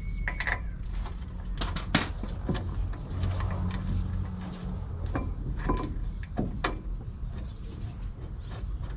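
Scattered metallic clicks and knocks of hand tools and brake hardware while a brake caliper is bolted on, with a low steady hum for a couple of seconds midway.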